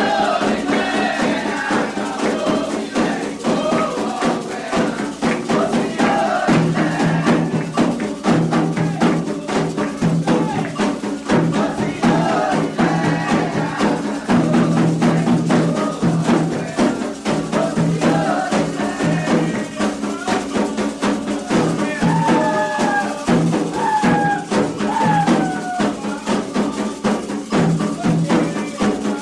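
Candomblé ceremonial music: a steady, dense rhythm on hand drums with shaken rattles, under a sung chant that stands out more clearly in the second half.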